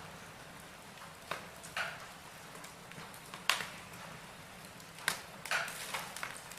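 Wood fire burning in a fireplace, crackling with irregular sharp pops over a steady soft hiss, one louder pop about halfway through.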